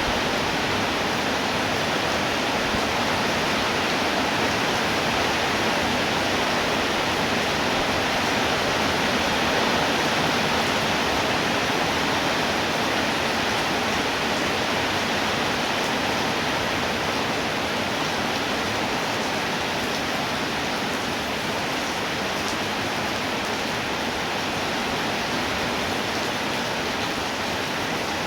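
Steady heavy rainfall, a dense even hiss without distinct drops.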